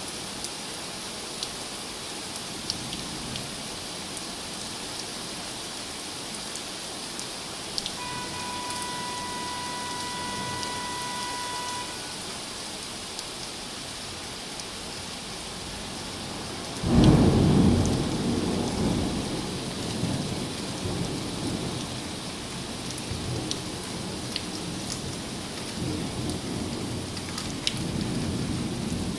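Steady rain falling, with scattered drops ticking. Just past halfway, a sudden loud thunderclap breaks in and rolls on as a long rumble that slowly fades.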